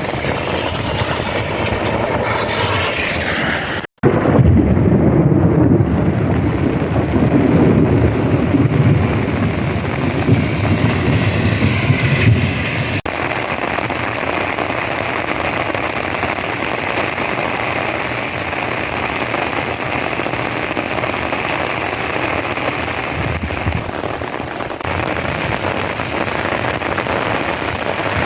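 Heavy monsoon rain pouring steadily. From about four seconds in, a low rumble of thunder rolls for roughly nine seconds and is the loudest part, before the rain alone carries on.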